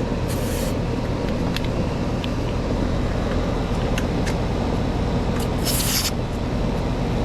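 Central air conditioner's outdoor condensing unit running steadily, a low hum under the fan's rush. Two brief hisses cut through, about half a second in and about six seconds in.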